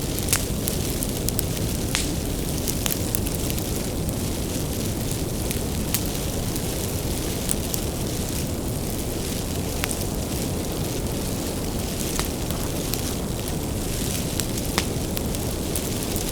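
Bonfire of firewood burning: a steady low rumble of the flames with frequent sharp, irregular crackles and pops from the wood.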